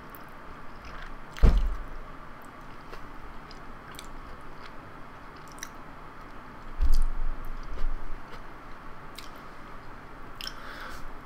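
Close-miked chewing of jajangmyeon noodles: soft wet mouth clicks and smacks, with two dull low thumps, one about a second and a half in and a louder one about seven seconds in.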